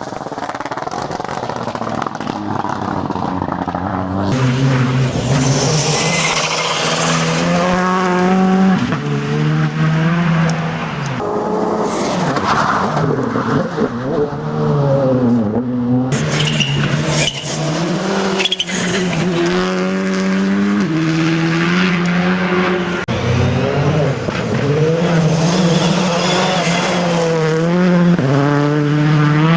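R5-class rally car engine running hard on a gravel stage, the revs climbing and dropping again and again with gear changes and lifts.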